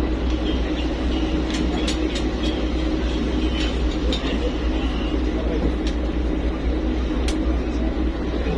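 Steady low engine drone of a passenger fast ferry, heard from on board, with faint background voices and a few light clicks.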